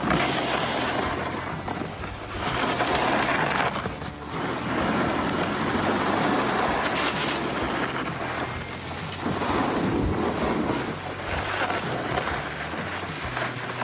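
Rushing noise of a snowboard run: the board scraping over snow and wind buffeting the microphone, swelling and easing every few seconds with the turns.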